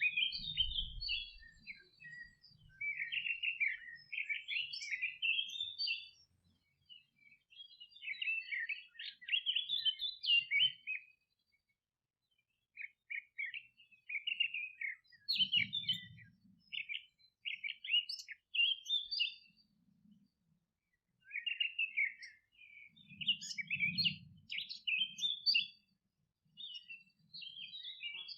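Songbirds singing in a meadow: quick chirping phrases come in bouts of a few seconds with short pauses between them. There are a few faint low rumbles in the background.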